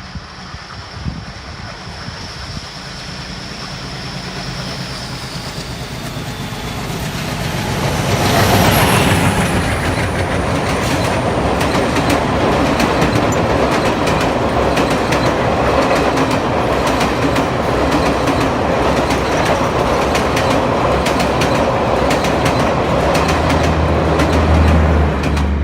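A passing Indian Railways train. It builds steadily for about eight seconds as it approaches, with a thin high whine that fades out. Then it rushes past close by, loud and sustained, with rapid clattering of wheels over rail joints.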